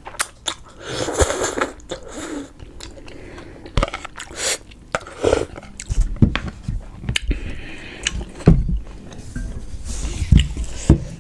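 Close-miked eating: biting and chewing, with irregular wet mouth clicks and short crunchy, noisy bursts.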